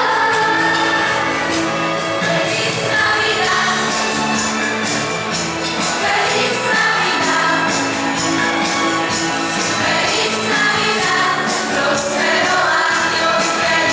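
Choir singing a Polish Christmas carol (kolęda) with instrumental accompaniment, several voices holding long notes together.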